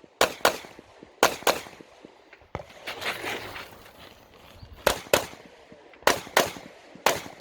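Bul SAS II Open-division competition pistol firing in quick pairs, two shots about a quarter second apart on each target. There are about five pairs, with a pause of roughly three seconds after the second pair.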